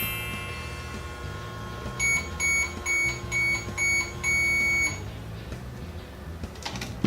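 Toy microwave playset beeping electronically: five short beeps in quick succession, then one longer beep about four seconds in, as the toy runs its cooking cycle.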